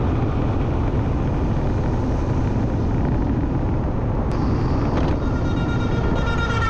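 Motorcycle riding along, its engine running under a steady low rumble of road and wind noise. About four seconds in there is a sharp click, followed by a steady tone with several pitches to the end.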